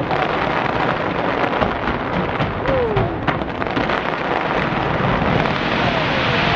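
Fireworks display going off in quick succession: a continuous rumble with many sharp cracks, the cracks thinning out after about three and a half seconds while the rumble goes on.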